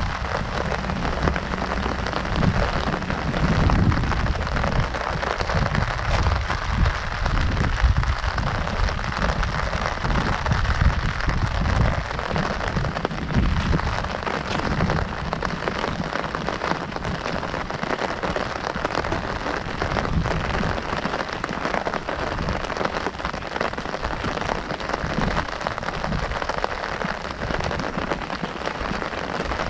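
Heavy rain drumming on an umbrella overhead, a dense, steady patter. A deeper low rumble under the patter in the first half eases off about halfway through.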